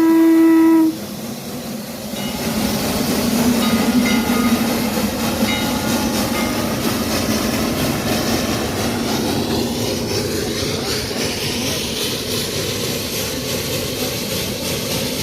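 A narrow-gauge Heisler geared steam locomotive's steam whistle cuts off about a second in. Then comes the locomotive's steady running noise and rail clatter, loudest around four seconds in.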